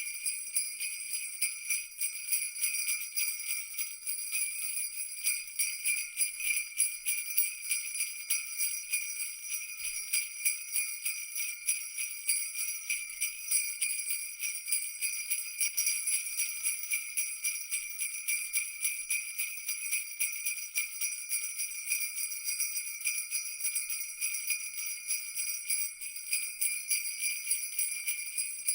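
Jingle bells shaken continuously, a dense, even jingling of many small bells with no pause.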